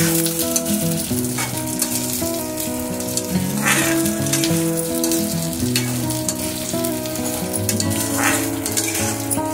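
Sliced ivy gourd (kundru) sizzling in oil in a metal kadai while being stirred and tossed with a metal spatula, which scrapes against the pan now and then. Background music plays underneath.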